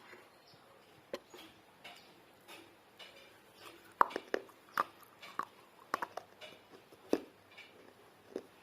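Close-miked chewing and crunching of pieces of baked clay pot, a series of sharp, crisp crunches. They come sparsely at first, then in a quick run from about four to seven seconds in.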